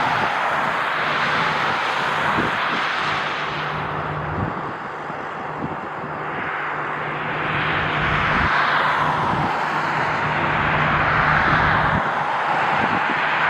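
Jet airliner engines: a loud rushing roar that eases off and then swells again, with gusts of strong wind buffeting the microphone.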